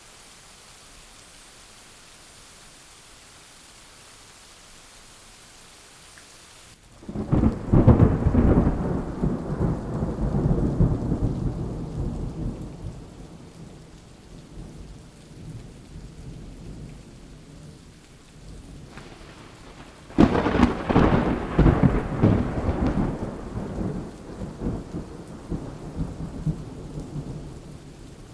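Steady rain with two peals of thunder: the first begins suddenly about seven seconds in and the second, louder, about twenty seconds in, each rolling on into a deep rumble that fades over several seconds. A fainter rumble comes just before the second peal.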